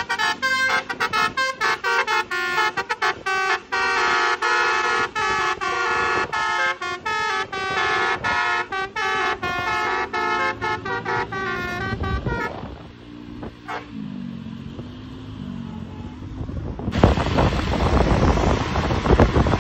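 Bus 'telolet basuri' musical air horn playing a quick melody of short notes for about twelve seconds. Then it stops, and a loud rush of wind noise starts near the end.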